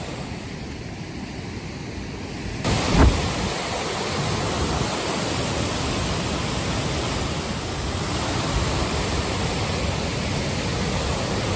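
Steady rushing roar of Wapta Falls, a large waterfall, that gets suddenly louder and fuller a little over two seconds in. A short thump follows about a second later.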